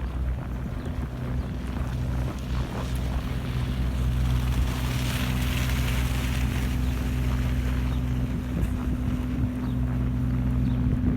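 A steady low mechanical hum, like an idling engine or a building's machinery, running throughout. A rush of hissing noise swells up about halfway through and fades again.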